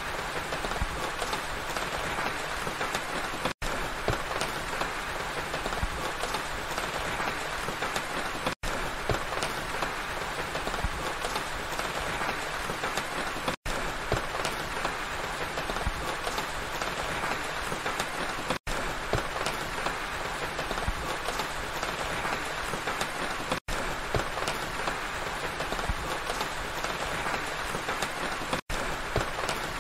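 Steady rain falling: a dense, even patter of drops. It is broken by a very brief silent gap about every five seconds.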